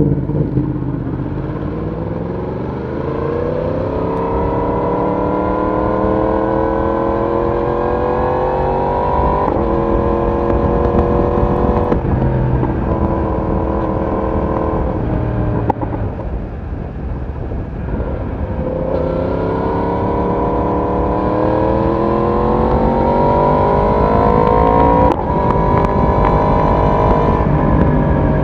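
Yamaha YZF-R1 inline-four sport bike engine and exhaust under way, the pitch rising steadily as it pulls and levelling off several times. It eases off briefly a little past halfway, then pulls up in pitch again.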